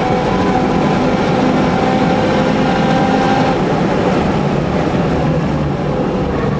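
Mitsubishi Lancer Evolution VIII's turbocharged four-cylinder engine, heard from inside the car, running hard at high revs down a straight, with wind and road noise. Near the end the engine note drops lower as the car comes off full throttle before a corner.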